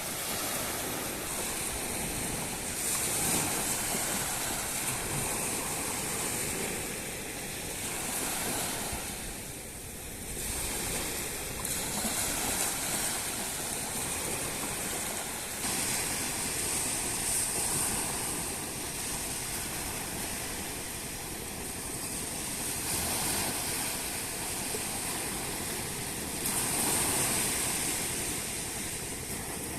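Surf washing onto a beach, a steady noise of waves that swells and eases every few seconds.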